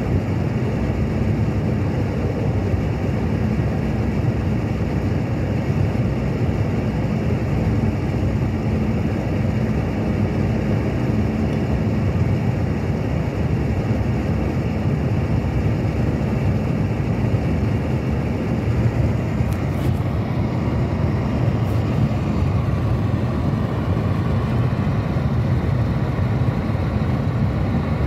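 Steady low rumble of a car driving along a road, heard from inside the cabin: tyre and engine noise with no change in pace.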